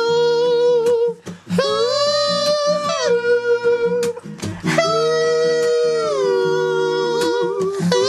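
A voice singing a wordless melody in long held notes over steady backing chords. It rises to a higher note a second or so in, steps down about three seconds in, jumps up again near the middle, then slides down slowly with a wavering note near the end.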